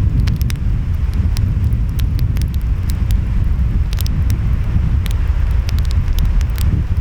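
Wood fire crackling, with frequent sharp pops, over a loud steady low rumble and hiss of ocean waves and wind.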